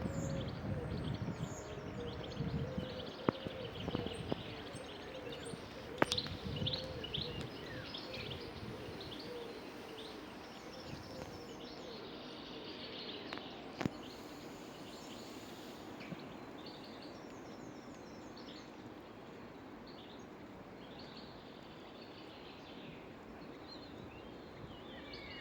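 Small birds chirping and calling outdoors, many short high calls over a steady background hiss, with a couple of sharp clicks.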